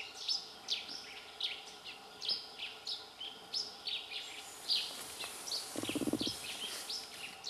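Forest birds chirping over and over: short, high, downward-sweeping calls, several a second. In the second half a high insect hiss thickens, and about six seconds in a brief low rasping buzz sounds.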